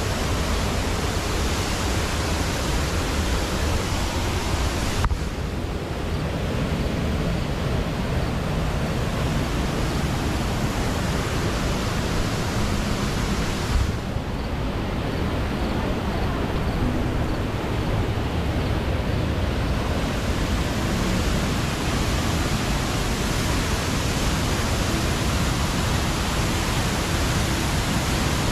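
Steady, loud rush of water falling over the rocks of a rainforest waterfall, a dense hiss with no break. Its tone shifts abruptly twice, about five and fourteen seconds in, losing some of its highest hiss for a while.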